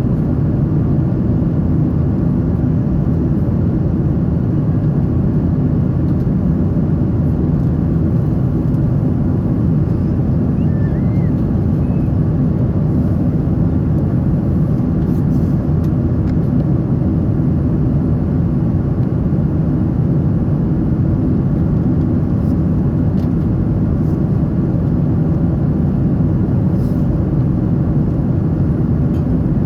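Steady low rumble of a Boeing 777-300's engines and rushing air, heard from inside the passenger cabin.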